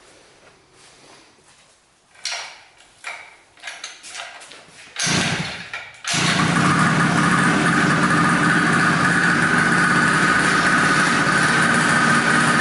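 Cheap 50cc two-stroke bicycle-kit engine on a trike being started: a few short sputters and a longer cough, then it catches about six seconds in and runs steadily and loudly.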